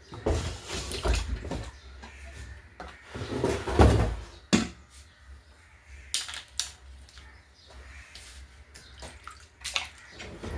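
Water sloshing and splashing in a basin as a chicken is worked by hand for plucking, with a few sharp knocks of a pot or basin.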